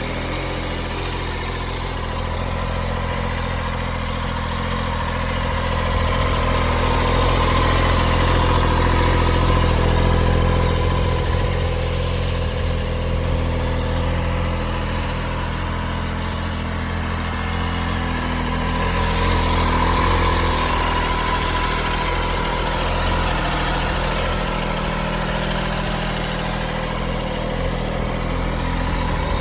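MV Agusta F3 800's three-cylinder engine idling steadily, growing slowly louder and softer twice.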